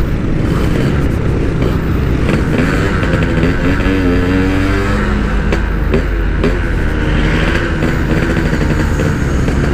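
Yamaha RX-King's 135 cc two-stroke single-cylinder engine accelerating hard under the rider, its pitch climbing and dropping back several times as it revs through the gears.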